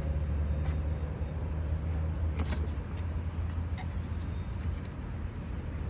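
A steady low hum with a few short, sharp clicks; the loudest click comes about two and a half seconds in.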